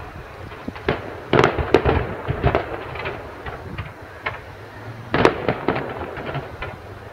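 Fireworks display: an irregular run of bangs and crackling pops, with the loudest clusters about a second and a half in and again about five seconds in.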